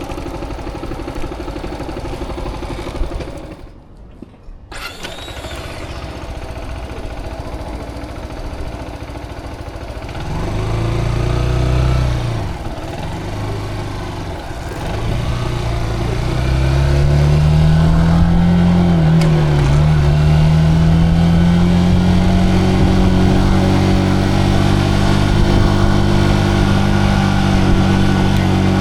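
Zontes cruiser motorcycle engine running low at first, with a brief gap in the sound about four seconds in. From about ten seconds it accelerates, the pitch rising, dropping and rising again through gear changes, then holds a steady cruising note.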